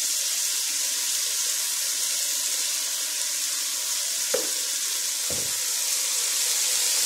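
Chicken pieces sizzling in a hot frying pan, a steady high hiss, with two short knocks about four and five seconds in.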